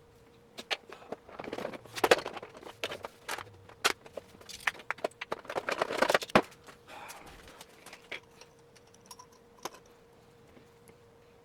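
Irregular sharp clicks and short metallic rattles from handling a manual typewriter, coming in two busy clusters and thinning out after about 8 s, over a faint steady hum.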